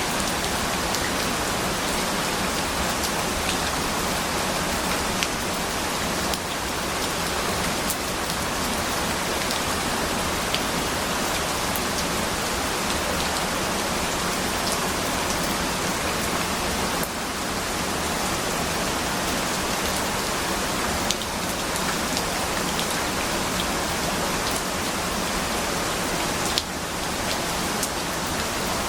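Steady rain falling: an even, dense hiss, dotted with sharper ticks of individual drops.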